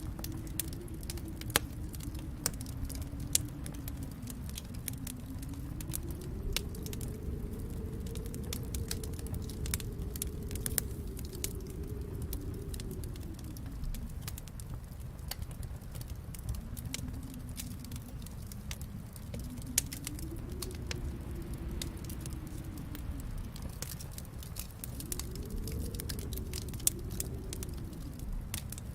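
Wood fire crackling in a fireplace, with frequent small snaps and a few louder pops, over a low rumbling wind that slowly rises and falls in pitch.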